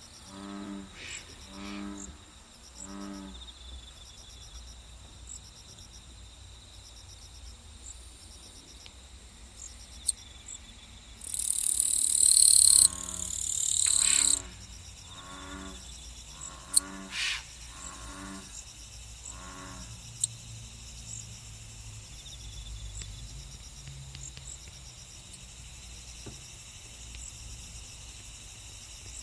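Insect and animal sounds: steady high chirping throughout, with a series of low pitched calls about once a second near the start and again in the second half. A loud hissing buzz about 11 to 14 seconds in.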